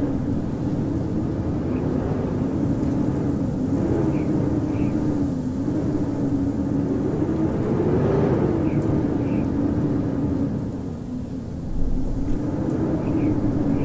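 Howling winter wind: a steady rush of wind with a low moaning tone that wavers up and down in pitch, easing briefly about two thirds of the way in. Faint short high chirps sound in pairs a few times.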